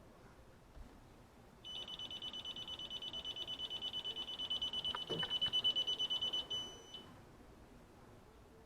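Electronic refrigerant leak detector sounding a rapid high-pitched beeping, about nine beeps a second, for about five seconds and growing louder: it is alarming at refrigerant while checking for a leak on an evaporator coil. A few light knocks come partway through.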